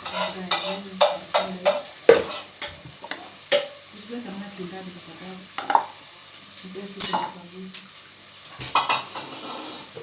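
Cooking sounds over a low sizzle: irregular knocks and clinks of kitchen utensils, with one loud ringing metal clink about seven seconds in.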